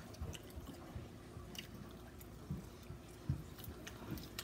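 A person chewing and biting into a sauce-coated fried chicken leg: faint, scattered clicks and soft mouth noises.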